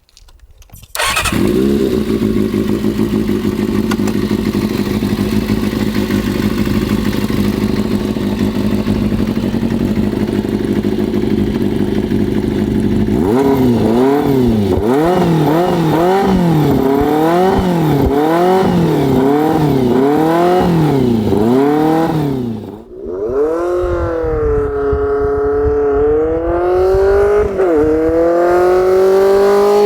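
Kawasaki ZRX400's air-cooled inline-four through an open, cut-down under-belly straight-pipe exhaust. It starts about a second in and idles steadily, then is revved in a regular rise and fall about once a second. Near the end the revs climb steadily with one short drop, like accelerating away through a gear change.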